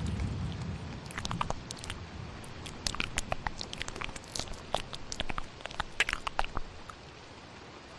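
Close-miked ASMR mouth sounds: rapid wet clicks and smacks over a steady hiss of rain. A low thunder rumble fades out in the first second, and the clicks pause briefly near the end.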